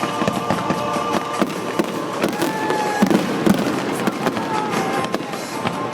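Fireworks going off in quick succession: many sharp bangs and crackles, one after another.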